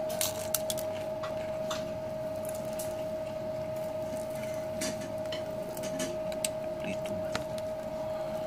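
Eating sounds: chewing and small wet mouth clicks from someone eating rice and chicken with his hands, with scattered light taps against the plate. A steady single-pitched hum runs underneath throughout.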